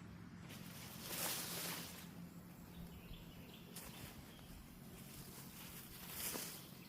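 Two brief rustling, scraping noises, one about a second in and one near the end, over a faint steady low hum.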